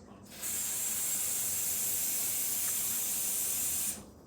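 A steady, high-pitched hiss that starts abruptly about half a second in and cuts off suddenly about three and a half seconds later.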